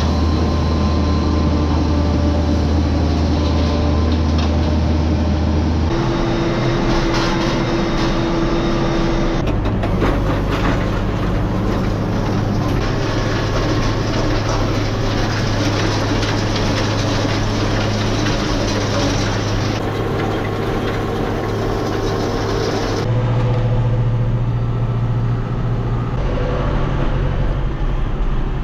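A vehicle engine running steadily and loudly, its pitch and tone jumping abruptly several times, about six, nine and a half and twenty-three seconds in.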